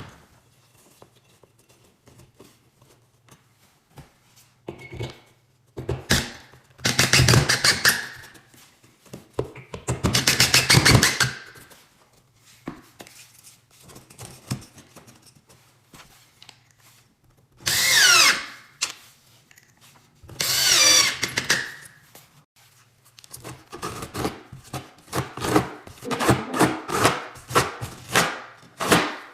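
A small power tool running in several bursts of a second or two each, its pitch shifting as it runs, followed near the end by a run of quick repeated strokes.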